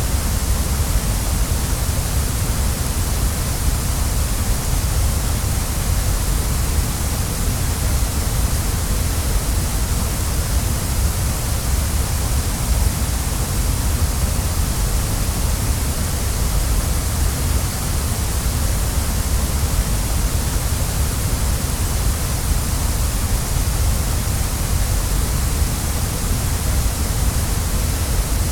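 Waterfall: water falling and rushing in a steady, unbroken hiss over a deep low rumble.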